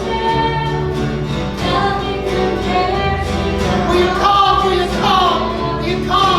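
Church worship music: voices singing over instrumental accompaniment, a steady gospel-style song.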